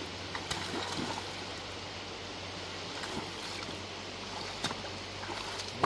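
Steady rush of flowing creek water, with a few faint, brief clicks scattered through it.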